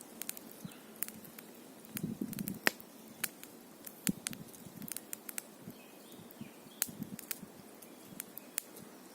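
Campfire crackling: sharp pops and snaps at irregular intervals, a few louder than the rest.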